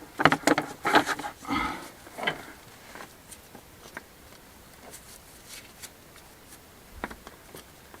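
Sandstone rubble being handled and fitted into a wall gap: a quick flurry of knocks and scrapes of stone on stone in the first couple of seconds, then a few scattered light clicks.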